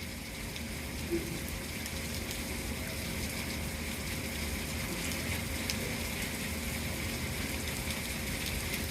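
Steady hiss of heavy rain falling, with scattered light ticks of drops.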